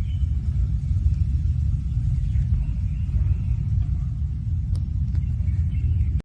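A steady low rumble, with faint high chirps and two brief sharp clicks near the end.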